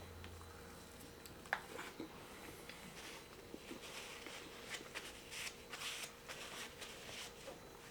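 Faint rustling and light clicks from someone eating and handling a takeout meal, with one sharper click about one and a half seconds in and busier rustling near the middle.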